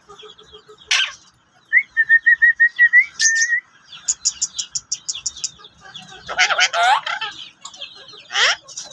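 Several birds calling. A short call comes first, then a row of short even chirps and a quick run of very high ticks. A loud harsh squawk follows, and another call comes near the end.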